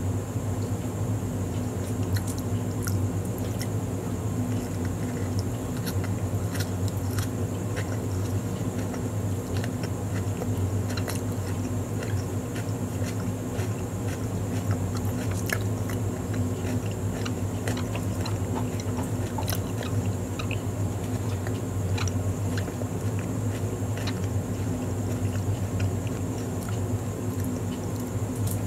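Close-up chewing of a soft-bun egg burger, with many small wet mouth clicks, over a steady low background hum.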